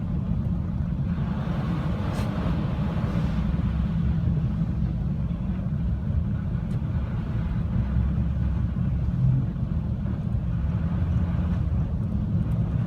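Steady low rumble of a car on the move, with a hissing swell like another vehicle passing about a second or two in.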